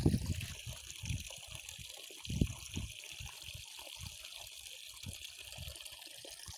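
Canal water trickling and flowing in a steady hiss, with a few dull low thumps, the strongest at the start and about two and a half seconds in.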